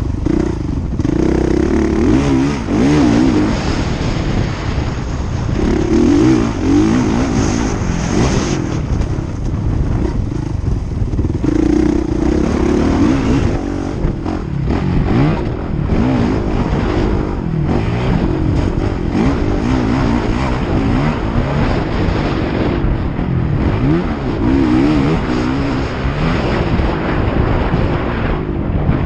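Motocross bikes running on a track, their engines revving up and down again and again as they accelerate and back off.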